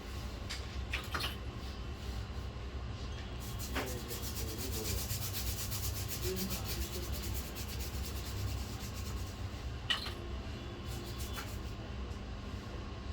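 Fast, even back-and-forth scrubbing or scraping strokes on a laptop logic board, several a second, starting a few seconds in and stopping near the ten-second mark, with a few small clicks of tools before and after.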